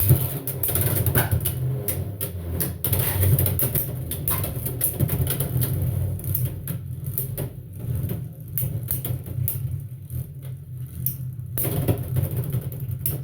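Two Beyblade X tops with Kick drivers, Reaper Incendio T 4-70 K and Crest Leon 7-60 K, spinning and clashing in a plastic stadium. A steady whir runs under rapid clicks and clacks from their hits, with a loud clack right at the start.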